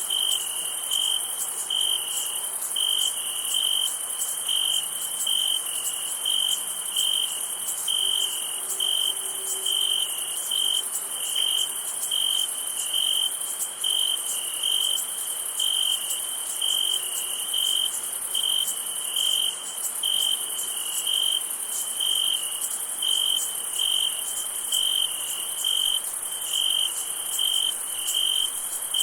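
Night insects, crickets by the sound of it: a high chirp repeating in a steady, even rhythm of about three chirps every two seconds, over a continuous high-pitched insect buzz.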